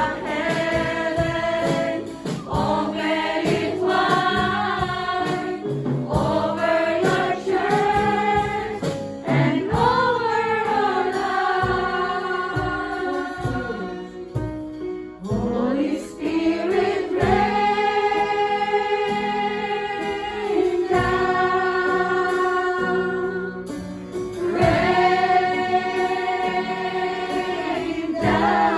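Choir singing a gospel worship song with instrumental backing, in long held phrases.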